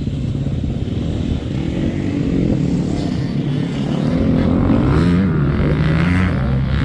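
85cc two-stroke motocross bikes running on the track, their engine pitch rising and falling as they rev up and back off, a little louder from about four seconds in.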